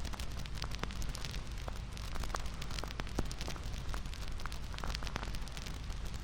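Wood fire crackling steadily, with frequent irregular sharp pops and snaps over a low, even rumble.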